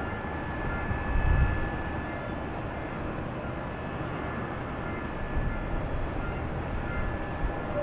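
Jet aircraft engine noise at an airport: a steady rushing with a thin, high, steady whine, and a brief low rumble about a second in.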